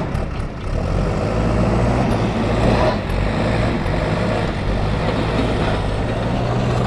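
Diesel engine of an Ace AX124 backhoe loader running steadily under load while the machine manoeuvres.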